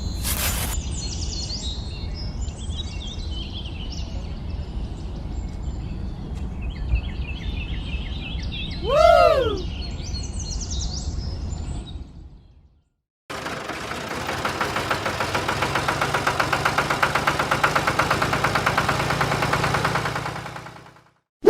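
Outdoor ambience with birds chirping, with a brief falling whistle-like glide partway through. After a short gap of silence, a steady, fast-pulsing buzzing noise like a small machine running lasts about seven seconds and then stops.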